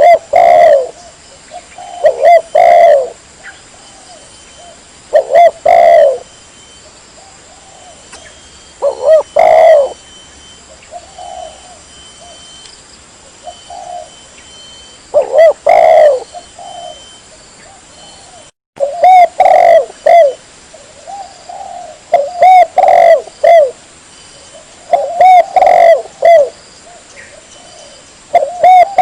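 Spotted dove (tekukur) cooing: loud, repeated coo phrases come every few seconds, with short quiet gaps between. This is a bird-lure recording used to call doves in.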